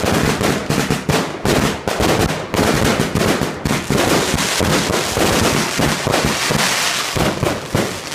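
Fireworks display going off: a rapid, continuous barrage of bangs and crackling, with the crackle thickest about six to seven seconds in.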